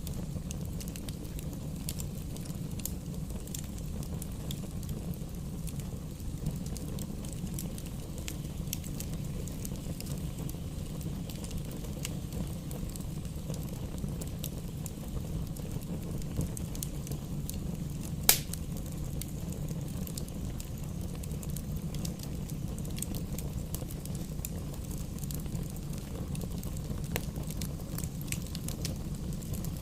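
Campfire burning: a steady low rumble under frequent small crackles and snaps of burning wood, with one loud pop a little past halfway.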